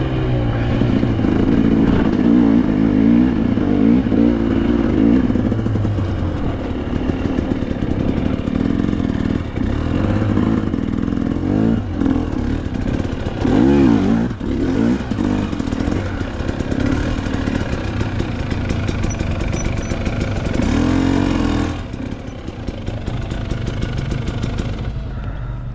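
Dirt bike engine running under load on a rocky trail, its revs rising and falling over and over, with sharp surges in the middle and again about three-quarters through. It drops quieter for the last few seconds.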